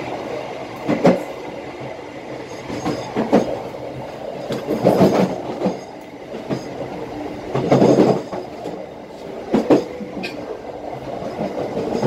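Passenger train wheels running on the rails, with a steady rumble and about five louder bursts of clickety-clack as the wheels pass over rail joints.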